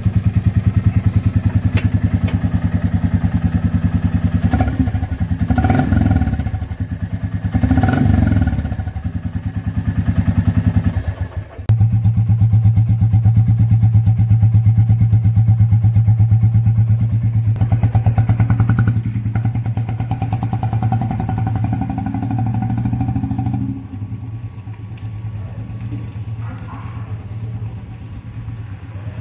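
Royal Enfield Bullet 350's single-cylinder engine idling through an aftermarket exhaust with an even, pulsing thump, blipped twice about six and eight seconds in. About eleven seconds in the sound cuts to another steady idle, which drops quieter near the end.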